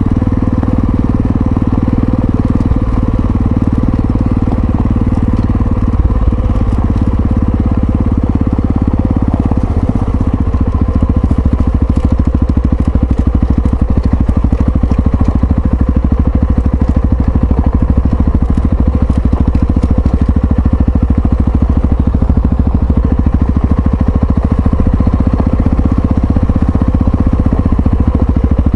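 Yamaha XT660Z Ténéré's single-cylinder engine running steadily under way, its note dropping about six seconds in, with a scatter of faint ticks in the middle.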